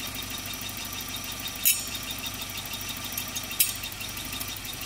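Volvo engine idling steadily with a fast, even ticking, broken by two sharp clicks about two seconds apart.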